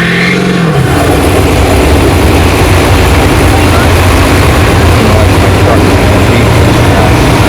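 Diesel pickup truck engine running at high revs under the load of a truck pull, loud and steady after a brief change in pitch in the first second.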